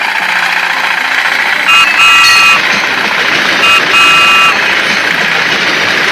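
Steady hissy engine-like running noise with a horn honking twice in a short-then-long pattern, a second and a half apart, the honks louder than the engine.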